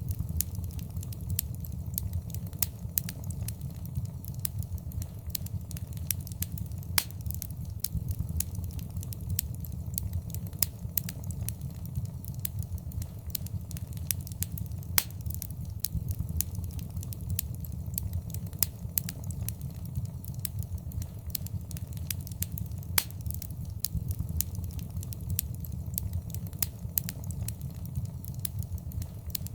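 Wood fire burning in a fireplace: a steady low rumble of flames under constant fine crackling, with a few louder sharp pops from the burning wood.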